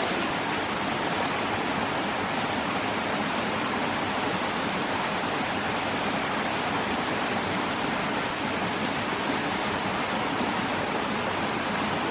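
Steady, even rushing noise, like running or falling water, holding one level throughout.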